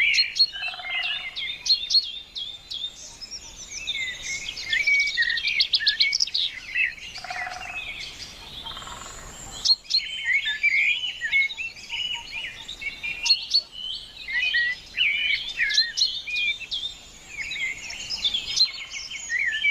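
Many small birds chirping and singing at once in a dense, overlapping chorus, with a rapid trill about five seconds in. Two short lower notes stand out, about a second in and again near eight seconds.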